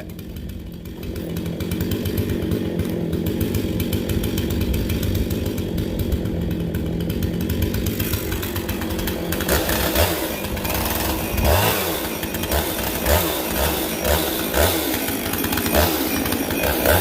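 Two-stroke chainsaw with a freshly hand-filed chain, running steadily. From about ten seconds in it surges repeatedly in short bursts as the throttle is worked.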